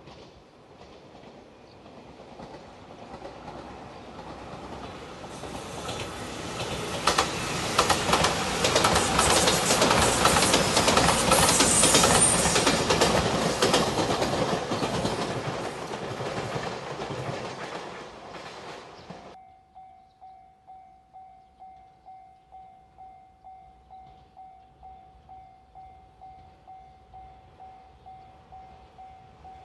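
Shiokaze limited express Anpanman electric train passing close by: the rush of noise builds, wheels clack over the rail joints at its loudest, then fades. About two-thirds of the way in it cuts off sharply, and a railway level crossing bell rings in a steady repeated ding, about one and a half strikes a second.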